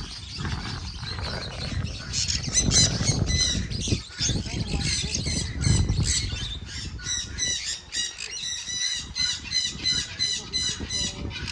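Parrots squawking: a long run of short, harsh calls repeated about three times a second, over low rumbling noise in the first half.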